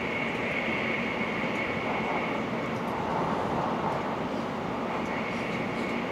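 Running noise inside a Hokuriku Shinkansen carriage at speed: a steady rushing noise with a thin, steady high tone through it.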